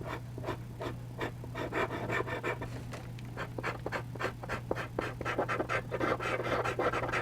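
Eraser rubbing lightly over charcoal on textured charcoal paper: quick back-and-forth scrubbing strokes, a few each second, growing busier toward the end.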